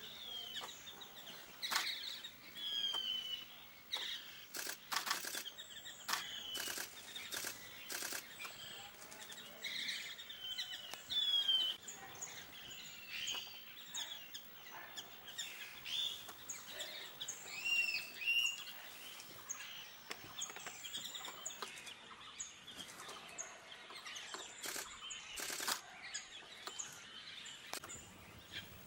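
Several birds calling over one another, with short chirps and whistled notes, some slurred up or down in pitch. A handful of sharp clicks stand out, in a cluster about five to eight seconds in and once more near the end.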